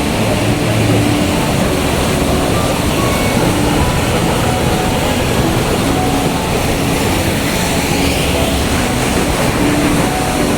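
Loud, steady roar of a waterfall.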